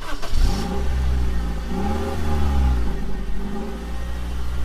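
Dubbed-in sound effect of a van engine driving off: a steady low engine drone that starts abruptly, with the revs rising and falling again about two seconds in.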